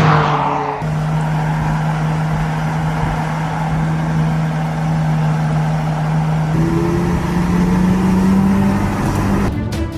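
McLaren 675LT Spider's turbocharged V8 running steadily at a constant engine speed, then pulling up gently, its pitch slowly rising over the last few seconds. Music comes in near the end.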